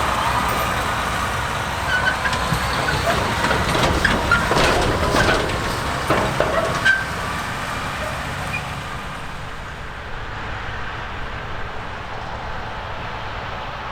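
Heavy harvest machinery running steadily, with a cluster of metallic clanks, knocks and short squeaks in the middle, then a little quieter and duller.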